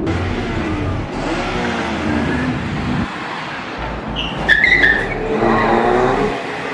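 Car engines revving, the pitch rising and falling, with a brief high tire squeal about four and a half seconds in.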